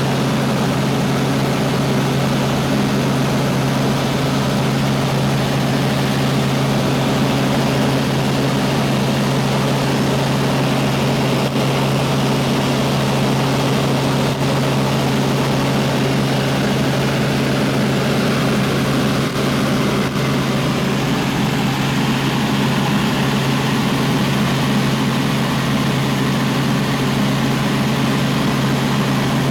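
Helicopter in flight heard on board: steady rotor and engine drone with a constant low hum.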